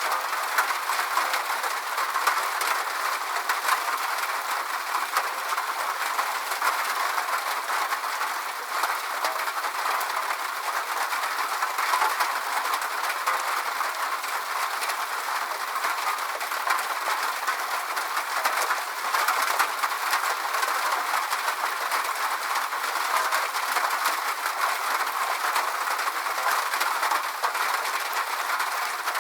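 Steady rain: an even hiss full of fine drop ticks, with no low rumble.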